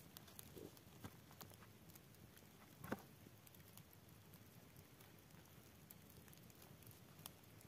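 Near silence: a faint steady hiss with scattered small clicks, and a soft knock about three seconds in.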